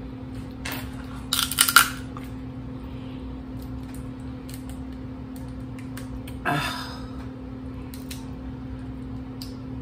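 Crackling and clicking of seafood shells being peeled and broken by hand. The loudest run of cracks comes about one to two seconds in, followed by scattered small clicks and one brief louder rustle about six and a half seconds in, all over a steady low hum.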